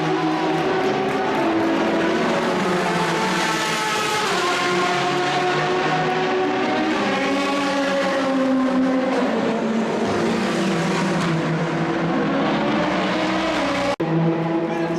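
Race car engines running at race speed, several engine notes overlapping and rising and falling in pitch as the cars accelerate and pass. There is a brief dropout near the end.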